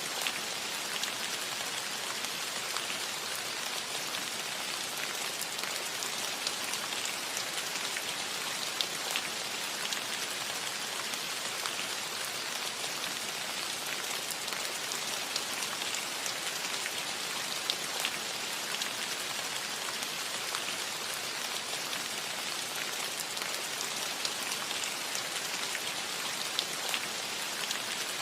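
Steady rain falling on a cottage roof: an even hiss with many scattered individual drop ticks.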